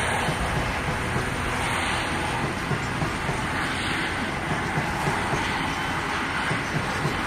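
Grain hopper wagons of a freight train rolling past at a steady speed: continuous steel-wheel-on-rail noise with light, frequent clacking of the wheels.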